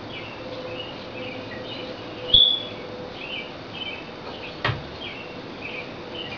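Small birds chirping, a dozen or so short high chirps with one louder chirp midway. A single sharp knock comes a little after two-thirds in.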